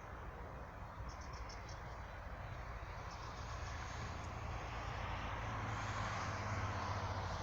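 Outdoor ambience of a distant engine, a low steady rumble and rush that grows gradually louder as it approaches, with a quick train of five or so high chirps about a second in and a few fainter chirps a little later.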